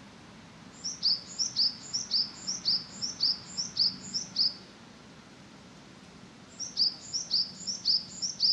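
A small songbird singing two phrases of quick, repeated high notes that each slide down in pitch, about two to three notes a second, with a pause of about two seconds between the phrases. A faint, steady low hum runs underneath.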